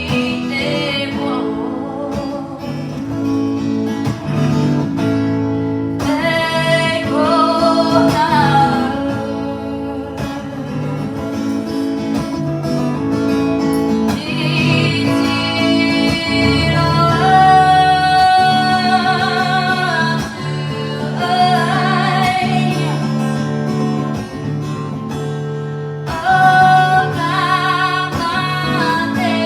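Live performance of a Māori waiata traditionally sung at funerals: a solo voice singing held, sliding notes over strummed acoustic guitar.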